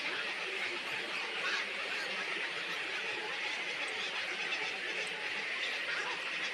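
Dense, continuous chatter of a large flock of birds calling together, holding at an even level.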